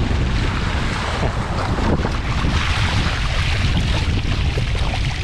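Strong gusty wind buffeting the microphone, with water rushing and splashing past the hull of a small sailing canoe moving fast through waves under a triple-reefed sail.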